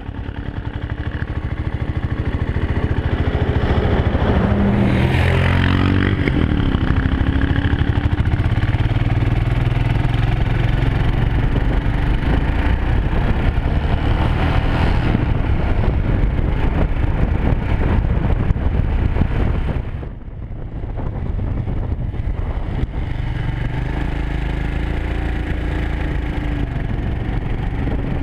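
Motorcycle engine running while riding, with road and wind noise; the engine note rises around four to six seconds in, and the sound drops briefly about twenty seconds in.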